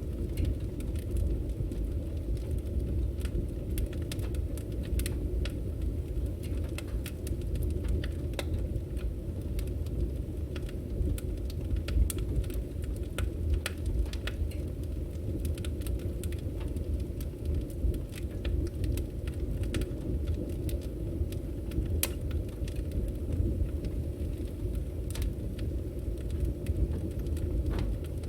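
Firewood burning: a steady low rumble of the fire with frequent sharp crackles and pops from the logs.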